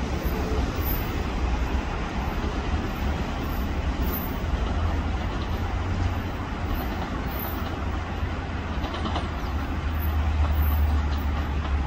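Metro-North M8 electric commuter train running over the tracks: a steady rumble of wheels on rail with a deep hum underneath, growing a little louder near the end.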